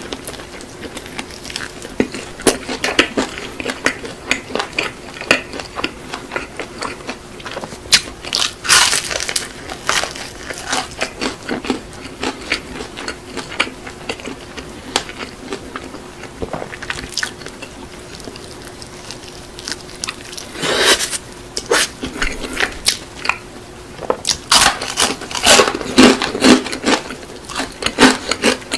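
Close-miked chewing and biting of crispy seasoned fried chicken, with crackling crunches throughout and louder runs of crunching about a third of the way in, around two-thirds of the way, and near the end.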